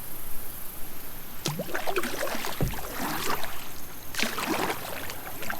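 Kayak paddle strokes splashing and dripping in creek water, in two bursts starting about a second and a half in and again about four seconds in, with a single low knock in between.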